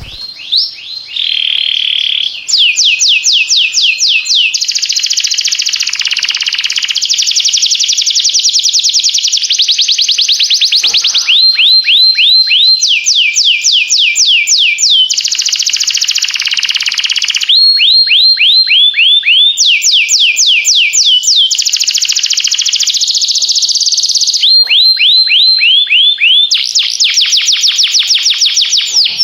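Domestic canary singing a continuous, loud, high-pitched song: phrases of rapidly repeated rising notes, several a second, alternating with fast trills, switching to a new phrase every two or three seconds.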